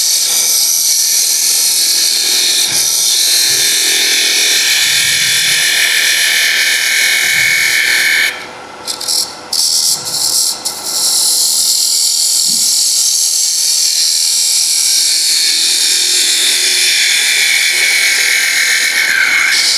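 Wood lathe turning while a cutting tool takes a light finishing cut on the spinning wooden top, a steady high hiss of shaving wood. The cut stops briefly about eight seconds in, then goes on.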